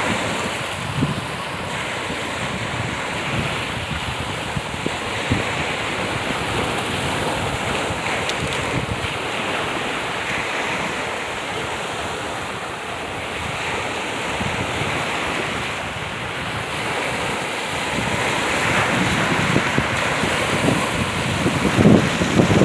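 Black Sea waves breaking on the shore in a steady wash of surf, with wind buffeting the microphone; the surf grows a little louder near the end.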